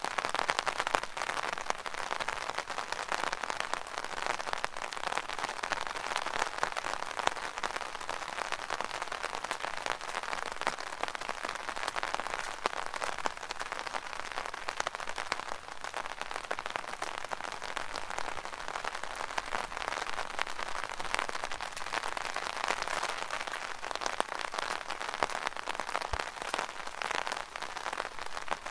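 Rain pattering steadily on an umbrella canopy, a dense even spatter of many small drop impacts.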